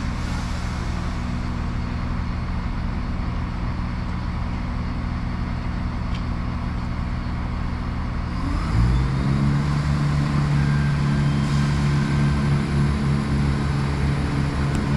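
Diesel multiple unit's underfloor engines idling with a steady low drone, then about eight seconds in the engines rev up to a higher, louder note as the train powers up to pull away.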